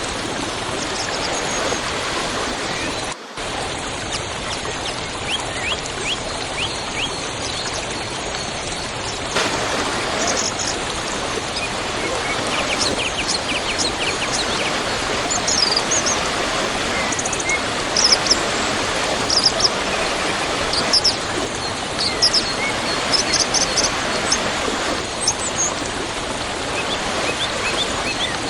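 Waterfall: a steady rush of falling water, with small birds chirping over it. The sound drops out for a split second about three seconds in.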